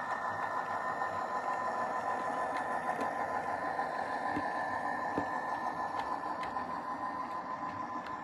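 Model train running on the layout: a steady high motor hum over the rumble of wheels on the track, with scattered light clicks.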